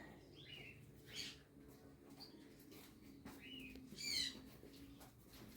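Faint calls from caged pet birds: several short chirps and squawks, the loudest about four seconds in.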